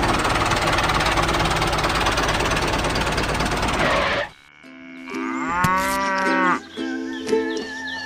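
A loud, steady rushing noise, like an engine running, cuts off suddenly about four seconds in. A cow then moos, a call that rises and falls, over a few steady low tones.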